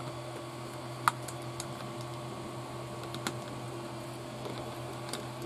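Small plastic RC kit parts clicking and knocking as they are worked into place by hand, with a sharp click about a second in and another about three seconds in, over a steady low hum.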